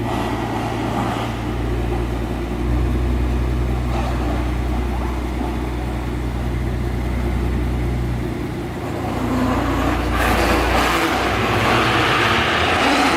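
Mercedes-Maybach S 650 BRABUS 900's twin-turbo V12 running with a steady low drone. About ten seconds in, a louder rushing hiss joins it.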